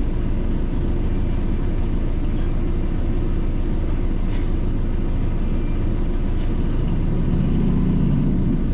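Steady low rumble of a car heard from inside the cabin, with a low hum swelling briefly near the end.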